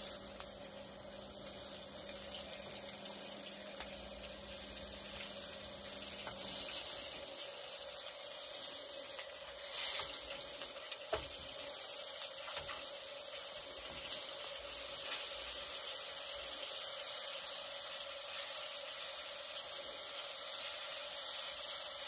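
Catfish pieces frying in a pan: a steady sizzle, with a couple of clicks of metal tongs against the pan about halfway through.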